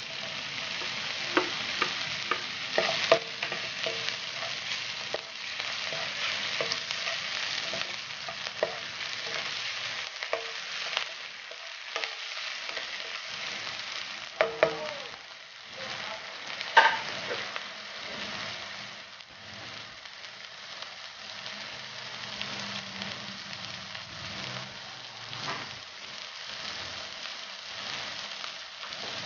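Sliced hot dogs frying with garlic and onion in a nonstick pan: a steady sizzle, with a slotted spatula clicking and scraping against the pan now and then as the pieces are stirred. The sizzle is a little quieter in the second half.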